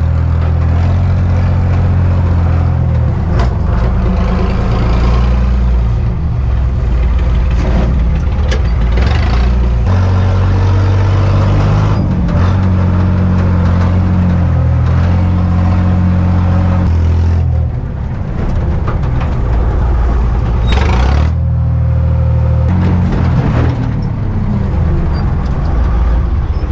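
Cummins diesel engine of an old dump truck running loudly under load, its pitch shifting up and down several times as the revs change.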